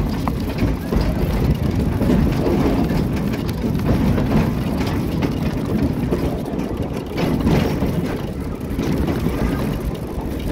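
A narrow-gauge forest railway train heard from the locomotive cab as it runs along the track: a steady low engine drone mixed with the rumble of wheels on the rails.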